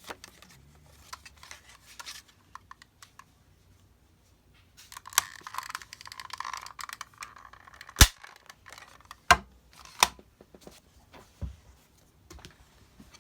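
Paper being handled and rustled, then a few sharp clicks or taps, the loudest about eight seconds in.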